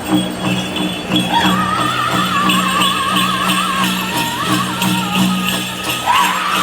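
Powwow drum and singers for a chicken dance song: an even, steady drumbeat, with a high singing voice coming in about a second and a half in on a quick vibrato. Jingling bells are heard along with the drum.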